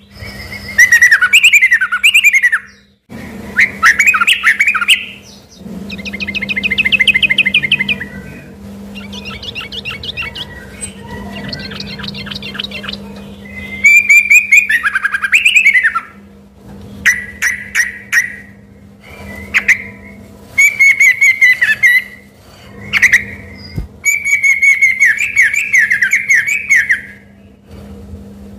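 Yellow-vented bulbul (trucuk) singing hard in a long run of varied whistled phrases, trills and rapid chattering notes with short pauses between them, its song filled with learned phrases of the white-rumped shama (murai batu). A steady low hum lies underneath.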